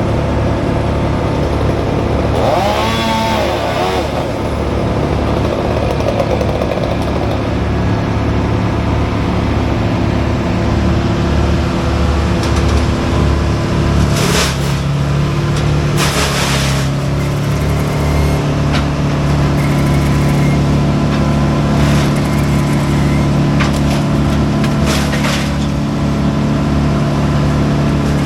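Heavy tree-removal equipment engine running steadily, with a short loud noisy burst about halfway through and another lasting about a second shortly after.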